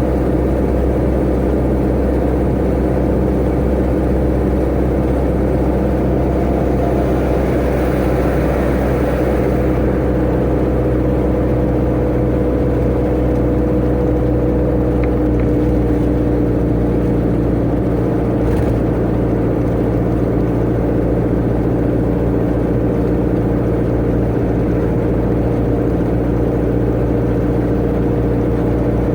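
Tata Ace mini truck at sustained road speed, heard from inside the cab: a steady engine drone over road and tyre noise, its pitch sagging slightly over the stretch, with a brief rise in hiss about a third of the way in.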